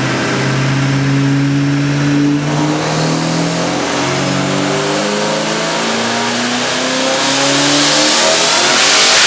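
Twin-turbocharged Ford 5.4 litre four-valve V8 in a Saleen Mustang running hard under load on a chassis dyno, getting louder toward the end with a hissing turbo rush over the engine note near the end.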